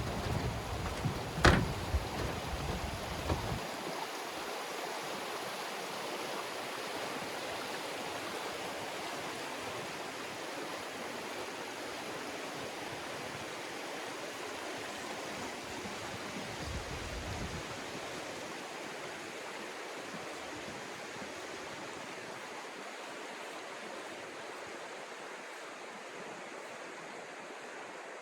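Rushing river water, a steady wash of noise that fades slightly toward the end. A few low thumps and one sharp click come in the first few seconds.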